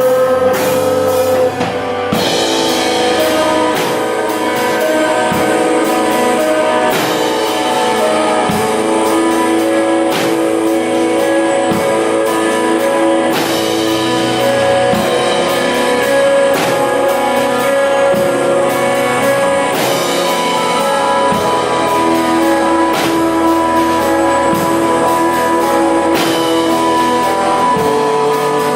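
Rock band playing live, guitar over a drum kit in an instrumental passage with sustained notes and a steady beat.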